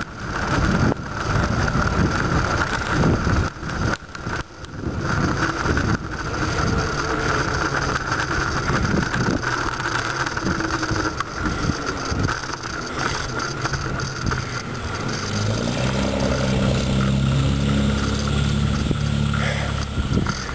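Wind buffeting the microphone of a moving bicycle, with a steady high whine underneath. From about three-quarters of the way in, a low droning hum rises in pitch and then holds steady.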